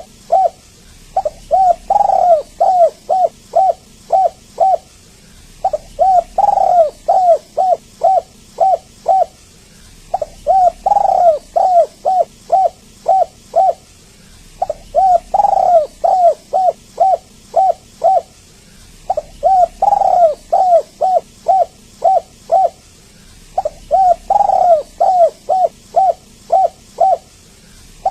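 Spotted dove (tekukur) cooing in repeated phrases. Each phrase is a run of short coos, about three a second for some three and a half seconds, with a stronger note near the start and a brief pause between phrases.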